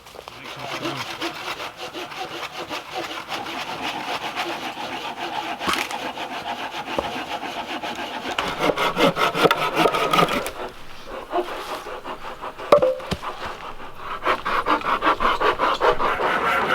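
Hand saw cutting through dead wood in steady back-and-forth strokes. The strokes pause for a few seconds past the middle, then start again.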